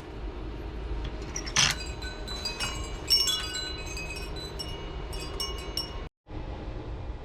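Chimes ringing: clear, high metallic tones sound at irregular moments and each rings away, over a steady low rumble. The sound cuts out to silence for a moment just after six seconds.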